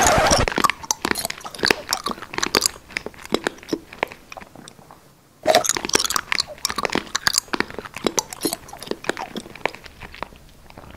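Biting into and chewing a crunchy red edible paint-can lid: a loud crunching bite at the start, then a second bite about halfway through, each followed by a run of crunchy chewing.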